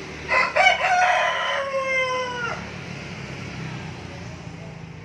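A single long bird call of about two seconds, loud at the start and sliding slightly down in pitch before it cuts off.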